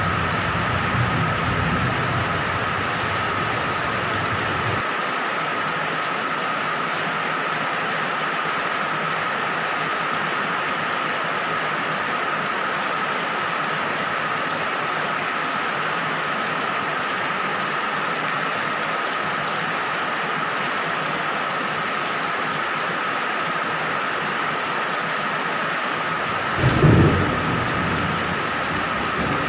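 Steady rain falling, with low rumbling thunder that dies away about five seconds in and returns as a louder thunder rumble near the end.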